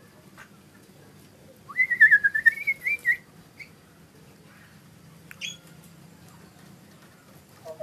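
Cucak ijo mini, a small green leafbird, sings a loud whistled warbling phrase about two seconds in, followed by a few short, sharp single notes.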